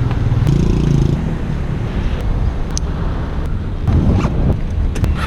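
Strong wind buffeting the microphone while riding, over the running engine of a Vespa LT125 scooter.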